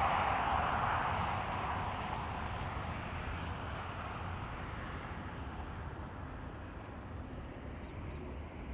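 Jet airliner engine noise, a broad rushing sound that fades steadily as the aircraft moves away, over a low rumble of wind.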